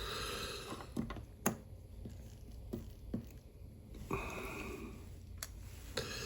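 Small, sharp, irregular clicks of watchmaker's tools, tweezers touching metal parts of a watch movement, about five over a few seconds.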